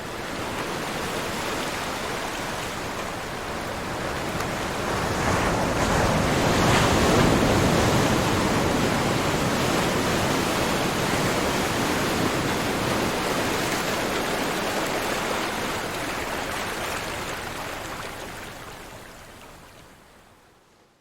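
Ocean waves washing in, a steady rush that swells about five seconds in and then slowly fades away near the end.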